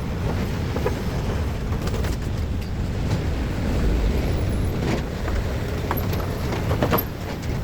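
Road vehicles running past, a steady low engine and tyre rumble with a few sharp clicks or knocks in the second half.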